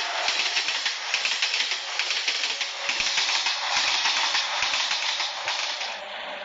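Train running on rails: a steady rushing noise with fast, dense clattering, easing a little near the end.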